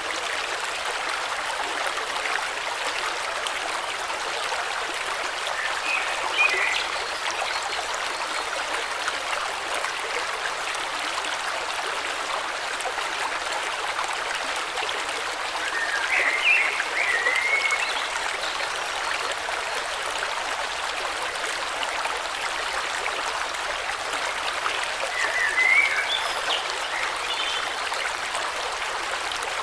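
Water of a stream flowing steadily, with a bird calling in short chirps three times: about six seconds in, around the middle, and near the end.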